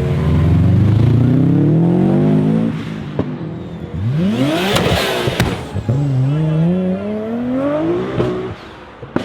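A car engine revving hard through its exhaust, rising in pitch twice, with a few sharp cracks in between.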